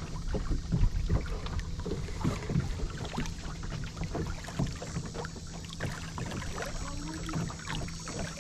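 Small fishing boat on the water: a steady low rumble with a dense, irregular patter of small knocks and taps on the hull.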